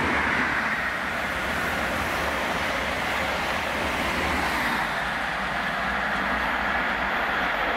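High Speed Train (InterCity 125, Class 43 diesel power cars with Mark 3 coaches) running past at speed: a steady rush of wheels on rail mixed with diesel engine noise.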